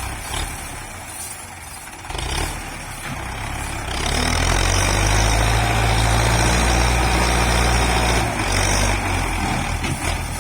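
Belarus 510 tractor's diesel engine running. It is quieter for the first couple of seconds, comes up to a loud, steady run about four seconds in, and eases back slightly about eight seconds in.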